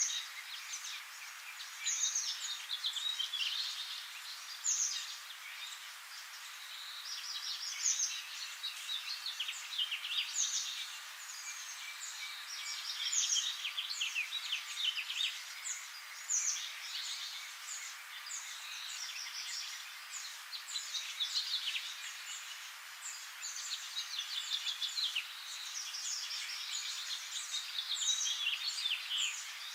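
Songbirds singing and chirping, a busy overlapping run of quick high calls, downward sweeps and trills.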